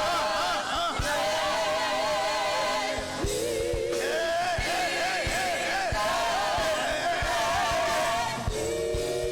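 Gospel praise singing with a band: voices hold long notes with heavy vibrato over a steady drum beat.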